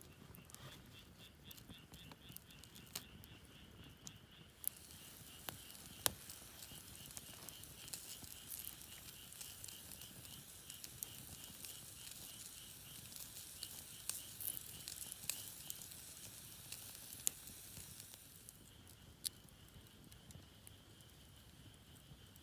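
Campfire crackling with scattered sharp pops over a soft hiss, while a night insect chirps in rapid, even pulses in the background; its call turns into a steadier trill near the end.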